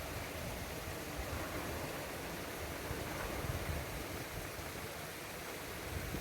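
Ocean surf washing steadily, with wind buffeting the microphone in low, uneven gusts.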